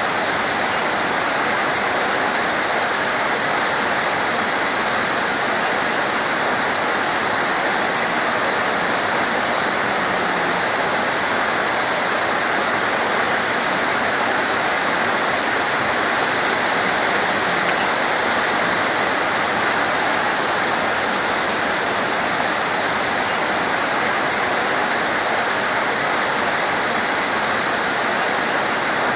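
Torrential rain pouring steadily, a dense, even hiss that does not let up, with one faint click about seven seconds in.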